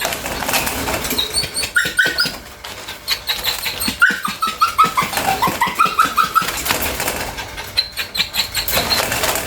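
Bichon dog whining in runs of short, high whimpers, some runs stepping down in pitch, with light clicks in between.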